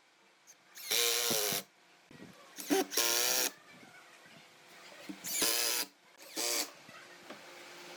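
A power tool switched on in short bursts, four times, each running about half a second before cutting off.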